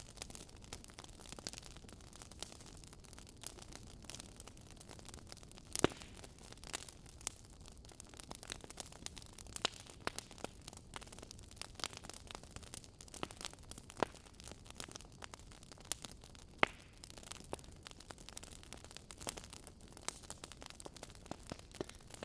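Wood fire crackling in a fireplace: frequent irregular pops and snaps over a soft steady hiss, with a few louder snaps scattered through.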